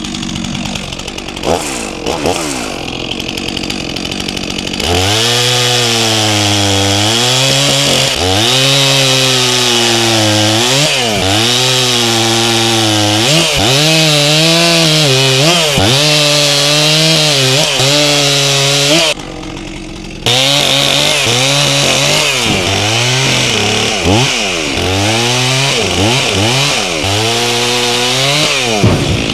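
Stihl MS400C chainsaw with a 28-inch bar, running low with a few short revs, then held at full throttle bucking logs into firewood rounds. Its pitch sags and recovers again and again as the chain bites into the wood. About 19 seconds in the throttle drops for a moment, then the saw cuts again.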